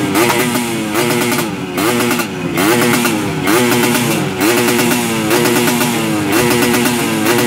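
Yamaha RX-King's two-stroke single-cylinder engine revved over and over through an aftermarket under-frame exhaust. Its pitch rises and drops back about once a second.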